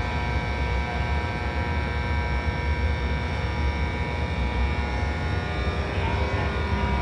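Train departing a station, giving a steady low rumble with a hum of several steady tones; a few new tones come in near the end.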